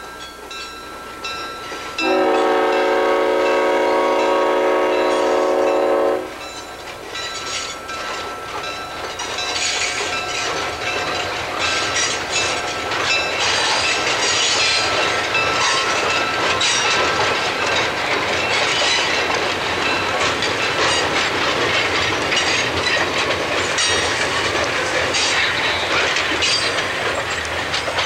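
The air horn of SBVR diesel locomotive No. 6135 sounds one long chord-like blast about 2 seconds in, lasting about four seconds. Then the passenger cars and caboose roll across a steel deck bridge, with a steady rumble and rapid clicking of the wheels over the rail joints.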